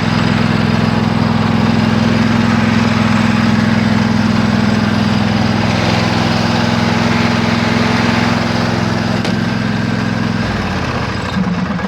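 A riding lawn tractor's small engine running steadily, freshly repaired, then winding down and shutting off near the end.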